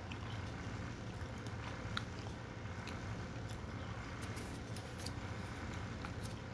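Chewing a mouthful of dry, crunchy shoestring seasoned fries: faint, scattered crunches, one a little louder about two seconds in, over a steady low hum.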